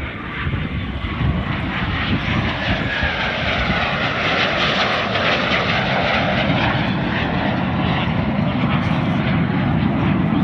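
Jet engines of a pair of BAC Strikemaster light jet aircraft flying a display pass, a continuous turbojet rumble and whine that grows louder over the first few seconds and then holds steady.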